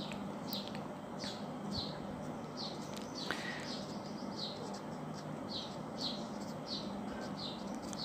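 A bird chirping: short, high, falling chirps repeated about twice a second, over a faint steady low hum.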